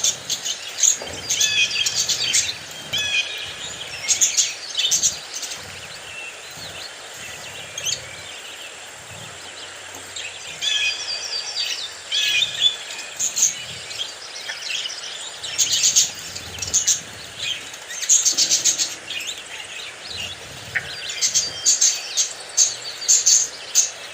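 Several budgerigars chirping and chattering in quick, irregular clusters of high chirps, with a quieter stretch partway through.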